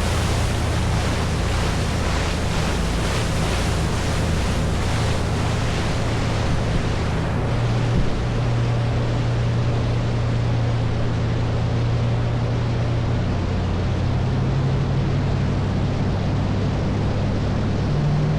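Small tour boat under way: its engine runs with a steady low hum whose pitch steps up about eight seconds in and shifts again later, under a loud rush of water along the hull and wind on the microphone. A single short knock comes about eight seconds in.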